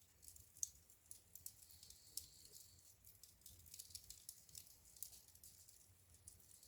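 Wood fire in a fireplace crackling quietly, with irregular small snaps and pops; the sharpest snap comes just over half a second in.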